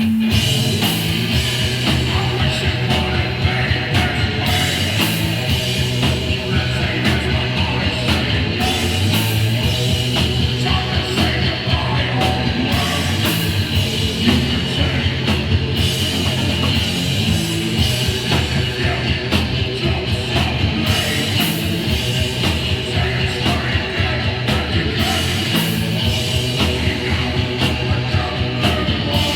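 Hardcore punk band playing live, with distorted electric guitar, bass and drums driving a loud, steady song, and shouted vocals over it.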